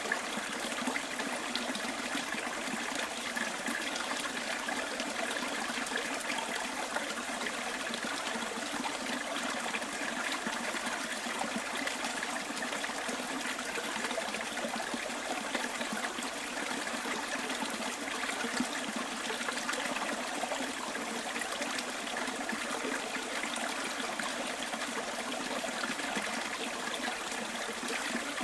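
Small bush stream running steadily, a continuous trickling and gurgling of water.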